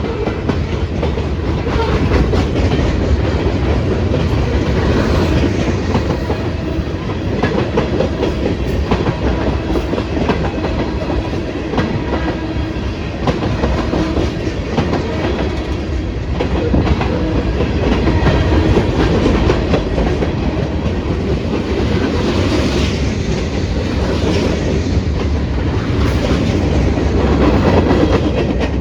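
CSX freight train cars rolling past close by: a steady, loud rumble with the wheels clicking over the rail joints.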